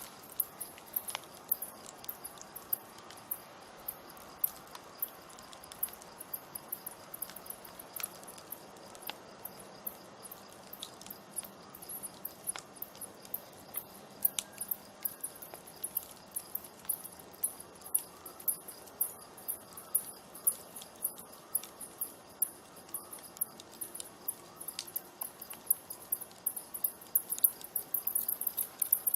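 Open campfire crackling, with frequent sharp pops and snaps from the burning wood that come thicker near the end. A steady, pulsing high chirping runs underneath.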